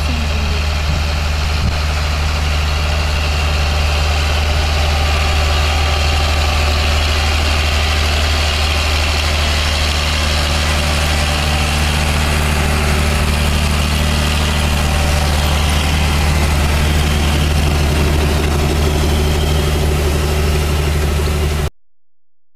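Farm machinery engine, likely a tractor in the peanut field, running steadily at a constant pitch with a dense mechanical rattle over it. It cuts off abruptly near the end.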